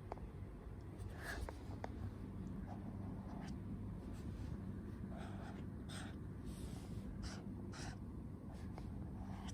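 Writing on paper: a scattering of short, faint scratchy strokes, over a steady low hum.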